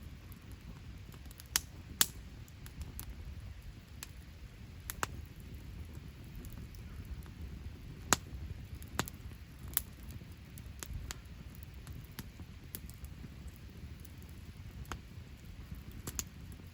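Wood campfire crackling, with irregular sharp pops, the loudest about two seconds in and about eight seconds in, over a low steady rumble.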